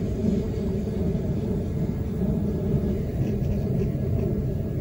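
Running noise heard inside a carriage of a Queensland Rail NGR electric multiple-unit train under way: a steady low rumble of wheels on track and carriage body.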